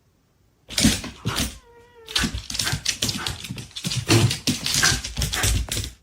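A pet animal, dog or cat, vocalizing in a run of loud, noisy calls with a short wavering pitched cry near two seconds in.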